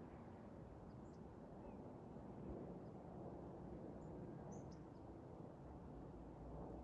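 Quiet outdoor background: a steady low rumble with a few short, faint, high bird chirps, mostly about four to five seconds in.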